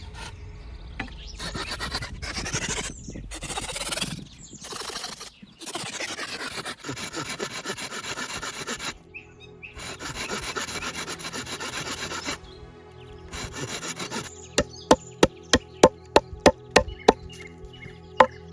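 Wood being hand-sawn in long rasping back-and-forth strokes, then, near the end, a quick run of sharp wooden knocks, about three a second.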